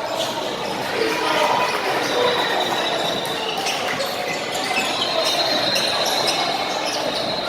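Basketball game in a gym: a ball bouncing on the hardwood court among the voices of players and spectators, echoing in the large hall, with a few high squeaks.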